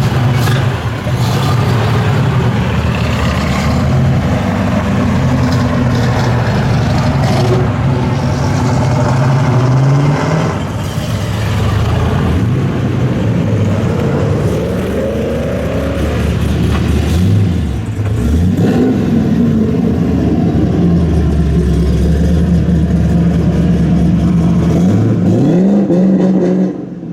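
American V8 muscle car engines running loud in traffic, revved several times with rising pitch: around the middle and again near the end.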